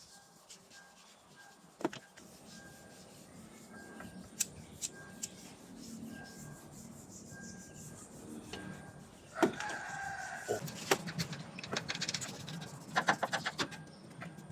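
A rooster crows once, about a second and a half long, roughly two thirds of the way through, over scattered sharp clicks and knocks; near the end comes a quick run of rapid clicks.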